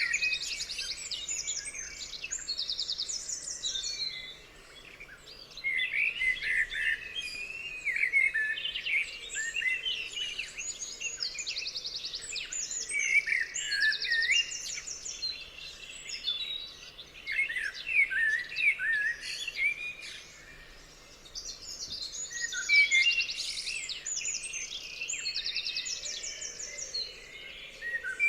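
Several songbirds singing over one another, a mix of quick chirping phrases and fast rattling trills, with short lulls about four seconds in and again about twenty seconds in.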